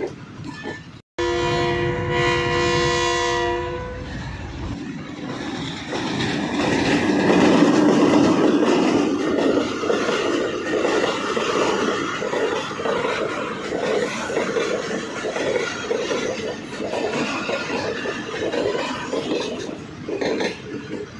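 A train horn sounds one steady note for about two and a half seconds, then the train runs on with its wheels clattering over the rail joints, the rumble swelling loudest about seven seconds in.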